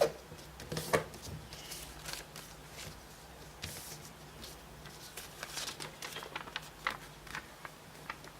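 Sheet of origami paper being folded and creased by hand: scattered crisp rustles and taps, over a faint steady low hum.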